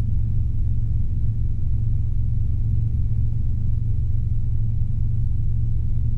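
Steady low drone of a Robinson R22 helicopter in flight, heard from inside the cabin: engine and rotor noise with no change in pitch.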